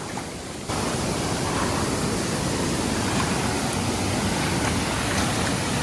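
Steady rushing of a creek waterfall, jumping abruptly louder about a second in and then holding even.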